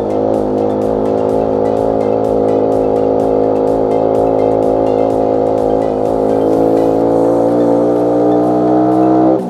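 Motorcycle engine running steadily at cruising speed, its pitch drifting slightly, then dropping as it slows near the end, with background music.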